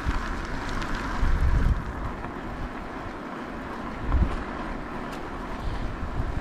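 Wind buffeting an action camera's microphone while cycling: a steady rushing hiss with gusts of low rumble, strongest about a second in and again near four seconds.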